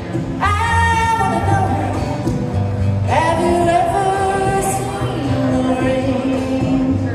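A singer performing a cover song over instrumental accompaniment, holding two long notes, one starting about half a second in and another about three seconds in, over a steady bass line.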